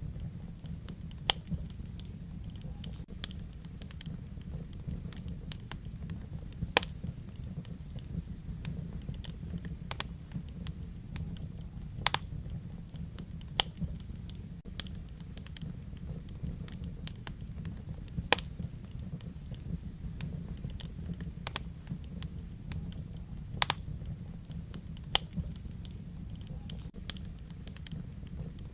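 Wood fire burning in a fireplace: a steady low rumble of the flames with sharp, irregular crackles and pops every second or few.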